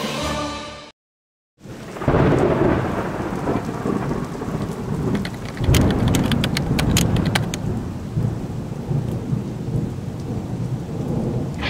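Thunder rolling over steady rain: a loud low rumble swells up, and a second rumble comes about halfway through, with a run of sharp crackles.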